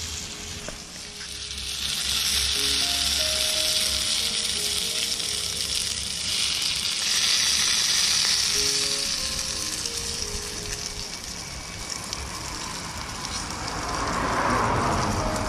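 Carrots, potatoes and corn frying in garlic butter on a hot charcoal barbecue hotplate: a steady sizzling hiss that eases off for a while near the end.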